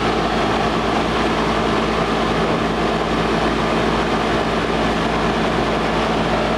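1997 American Standard Odyssey heat pump running in cooling mode: the condenser fan blowing strongly, a steady rush of air with a steady hum underneath.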